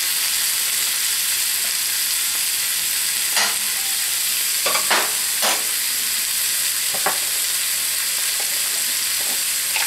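Apple, pineapple and sausage sizzling steadily in a cast iron skillet. A spoon scrapes and knocks against the pan several times in the middle.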